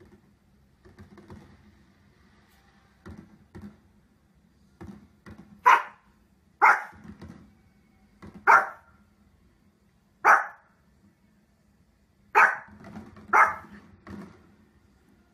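A Pomeranian barking in single sharp barks. There are a few softer sounds first, then six loud barks spaced one to two seconds apart, starting about six seconds in.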